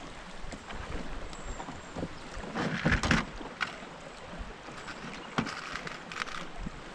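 Handling noise in a small fishing boat: scattered light knocks and rustling over a steady hiss of water and wind, with the loudest burst of rustling about three seconds in.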